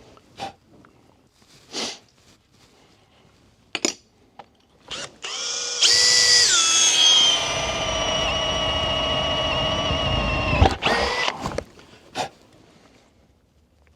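Electric drill running for about five seconds: its whine drops in pitch shortly after it starts, as if coming under load, then holds steady until it stops abruptly. A few sharp clicks and knocks come before and after the run.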